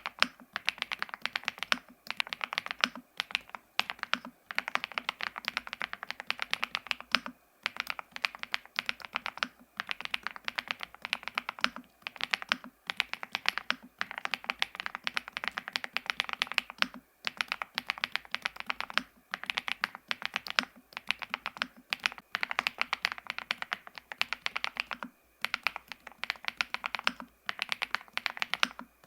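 Typing on an ABKO A108K full-size mechanical keyboard fitted with Mammoth linear switches on a PC plate: fast runs of keystrokes, each lasting about two seconds, with brief pauses between.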